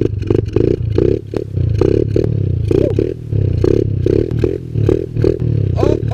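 Kawasaki KLX110L pit bike's small single-cylinder four-stroke engine with a Pro Circuit exhaust, its throttle worked in repeated swells, about two or three a second, through a wheelie attempt. Clattering and scraping noises run over it.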